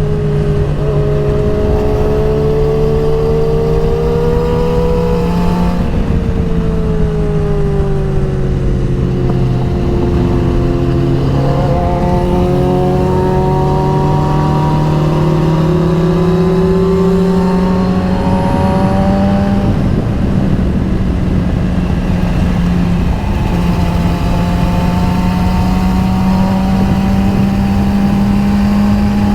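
Motorcycle engine running under way, its pitch slowly rising and falling with a couple of gear changes, about 6 and 11 seconds in, under heavy rushing wind noise.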